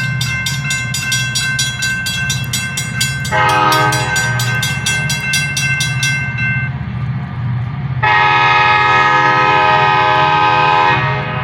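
Freight train's diesel locomotive with a steady low engine rumble, sounding two long horn blasts, the second the louder. A rapid, even metallic ringing, about five strokes a second, runs under the first blast and stops a little past halfway.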